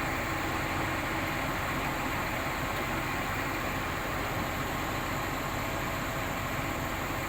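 Komatsu D85SS-2 crawler bulldozer running steadily, an even mechanical drone from its diesel engine and running gear with a faint steady whine.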